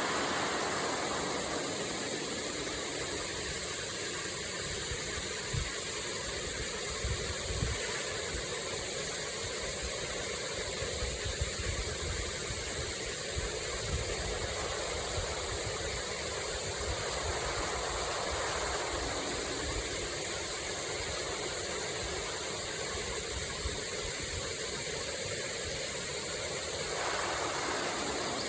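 Waterfall: a steady rush of falling water, with irregular low rumbles beneath it.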